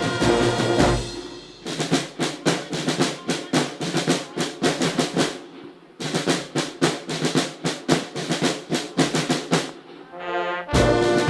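Military band: brass playing briefly at the start, then a snare drum cadence of rapid strokes, with the brass coming back in near the end.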